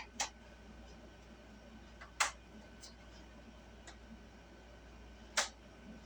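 Three sharp clicks or taps, spaced two to three seconds apart, with a couple of fainter ticks between them, from a small dry-erase board and its parts being handled; a faint steady low hum underneath.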